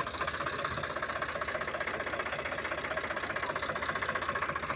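Swaraj 855 tractor's diesel engine running steadily under load while hauling wood, with a rapid, even knocking beat.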